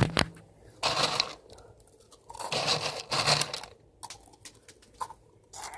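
Dry cereal being poured from its box or bag into a bowl, rustling and crinkling in two pours: a short one about a second in and a longer one a little later.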